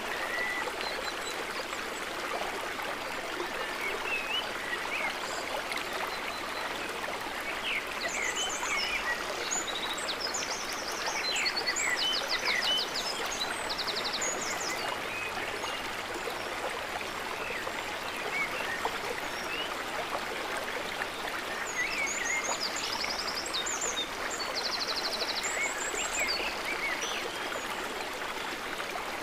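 Gently flowing, trickling water making a steady babble. Short high chirps and quick trills come in twice, about a third of the way in and again past the middle.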